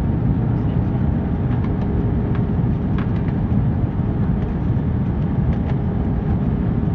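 Steady cabin noise of an Airbus A321 airliner in flight on approach: a low rumble of engines and airflow with a faint steady hum over it, and a few light clicks.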